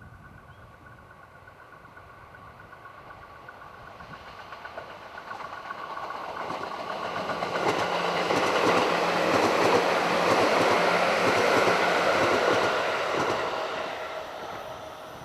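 JR 211 series electric multiple-unit train approaching and passing at speed, its wheels running on the rails. The sound grows steadily, is loudest for several seconds in the middle, then fades away.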